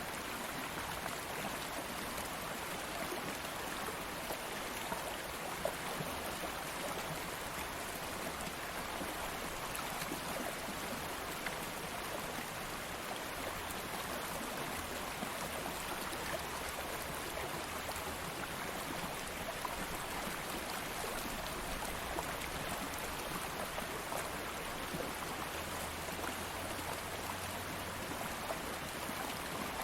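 A stream of water flowing steadily, an even rush of water with small splashes and trickles throughout.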